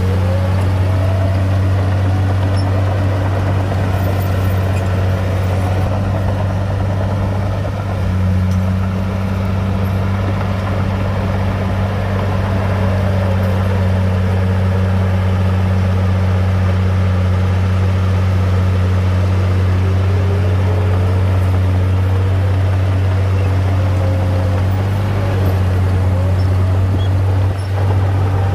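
Heavy diesel engine of a bulldozer working steadily under load: a constant low drone, with faint whines that rise and fall in pitch over it.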